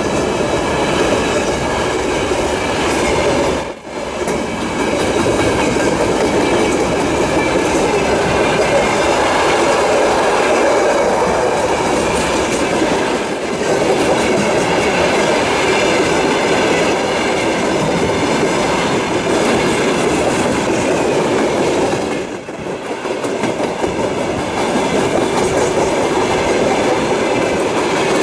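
A freight train rolling past at speed, its wheels clattering over the rail joints with some squeal, loud and steady. The sound drops away sharply for a moment about four seconds in and dips again about 22 seconds in.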